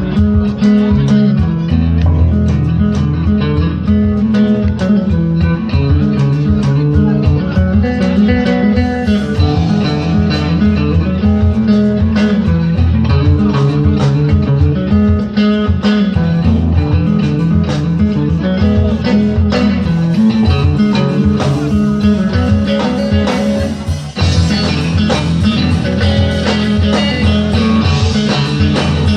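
Live band playing a blues-rock number, with guitars and bass guitar carrying it. There is a brief dip about three-quarters of the way through, after which the sound turns brighter and fuller.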